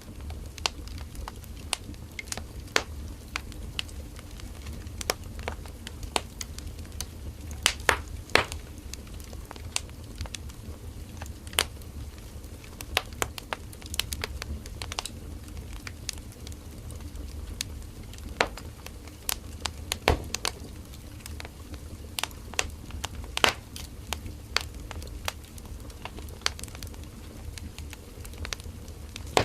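Wood fire burning: firewood crackling and popping with irregular sharp snaps over a steady low rumble of flame.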